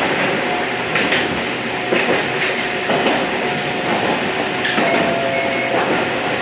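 Toyama Chiho Railway 14760 series electric train running along the line, heard from inside the leading car: steady running noise with wheel clicks over rail joints about once a second.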